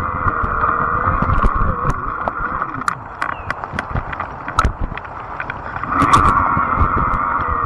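Fat-tire electric bike being ridden: a steady hum that fades for a few seconds mid-way and comes back strongly about six seconds in, over scattered clicks and rattles and a low rumble of wind on the microphone.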